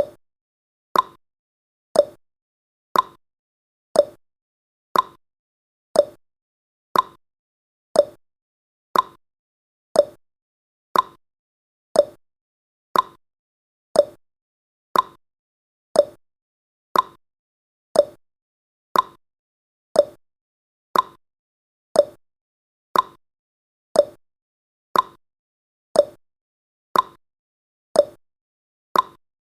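A countdown timer's ticking sound effect: one short, sharp tick every second, steady and even, about thirty in all.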